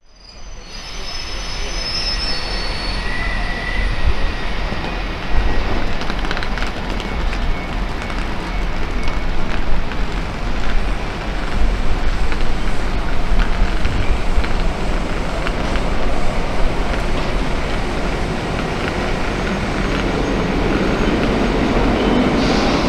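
EP07 electric locomotive hauling a passenger train as it departs, with steady rumbling rail noise and clicking wheels. A few thin, high wheel squeals come in the first seconds, and a humming tone builds near the end as the train gathers speed.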